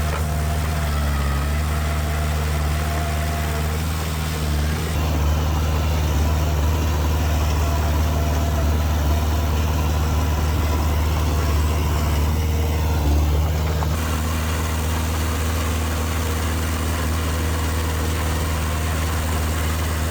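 Diesel engine of heavy earthmoving machinery running steadily at low revs, slightly louder from about five seconds in until about fourteen seconds.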